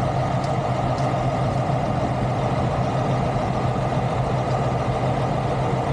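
Heavy diesel truck engine idling steadily, with a couple of faint clicks about half a second and a second in.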